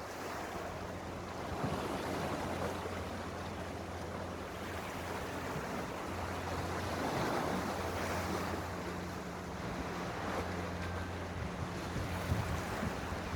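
Sea waves washing and surging, swelling louder a couple of times, with wind buffeting the microphone and a steady low hum underneath.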